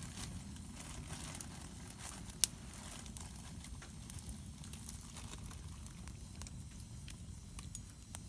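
Wood campfire crackling, with scattered sharp pops and one louder snap about two and a half seconds in, over a steady low rumble.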